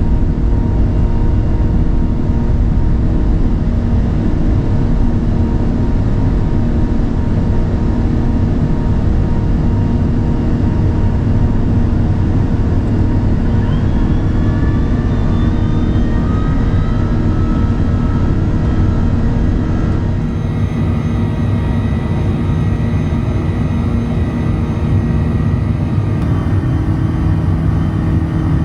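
Airbus A380 airliner heard from inside the cabin: a loud, steady engine and airflow rumble with steady tones. A rising whine joins about halfway through, and the sound shifts slightly about two-thirds of the way in.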